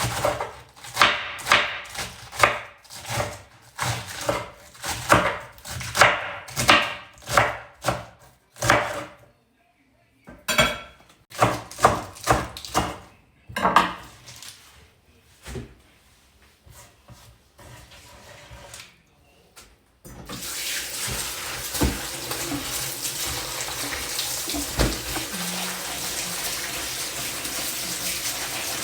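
A run of short clinks and knocks at about two a second, then a tap turned on about twenty seconds in, with water running steadily into a sink.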